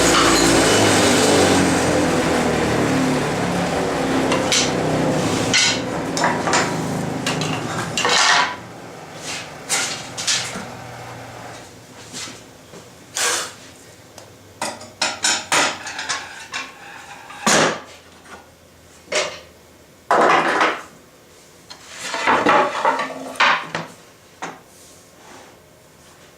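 Table saw spinning down after a rip cut, its hum dying away over about eight seconds, followed by a string of sharp knocks and clatters as wooden boards are handled and set down.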